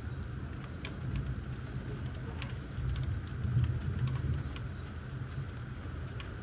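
Thunderstorm rain: a steady hiss of rain with scattered single drops ticking close by, over a low rumble that swells briefly in the middle.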